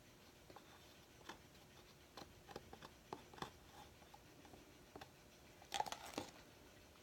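Faint scattered clicks and rustles of hands handling painting materials, with a brief burst of louder rustling about six seconds in.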